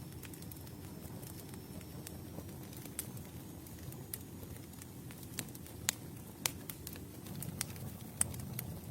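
Wood campfire burning: a steady low rumble of flames with scattered sharp crackles and a few louder pops in the second half.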